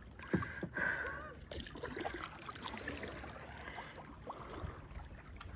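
Water trickling and dripping around a kayak as it is paddled, with a few small splashes and knocks.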